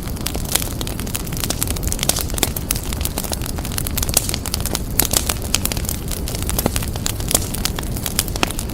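Fireplace fire crackling: many sharp irregular pops and snaps over a steady low rumble of the burning.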